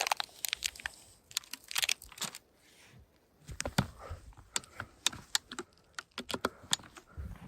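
A string of irregular, sharp clicks and crunches, several a second with short pauses between them.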